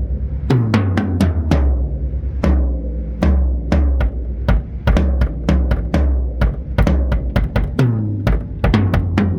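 Tom-toms fitted with new Remo Pinstripe heads played in quick fills around the kit, each stroke ringing out with a low pitched decay.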